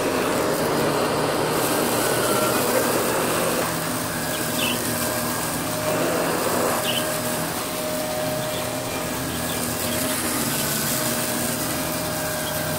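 Vacuum cleaner motor running steadily with a constant whine.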